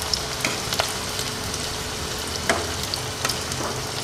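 Spring rolls shallow-frying in hot oil over a low flame: a steady sizzle with scattered sharper pops and clicks as they are turned with metal tongs.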